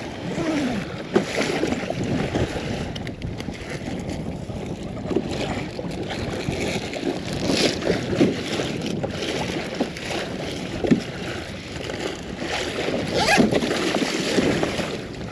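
Water splashing against a kayak's hull as it moves across the water, with wind buffeting the microphone.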